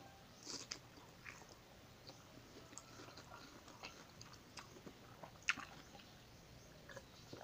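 Close-up mouth sounds of a person chewing soft mango: faint wet chewing and smacking clicks, with one sharper click about five and a half seconds in, then a sip of juice from a glass near the end.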